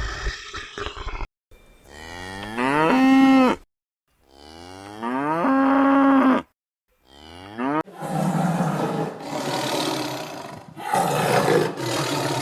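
Cow mooing twice, each moo rising in pitch and then holding a steady note before cutting off. From about eight seconds in, a rough, noisy growl follows, swelling and fading about once a second.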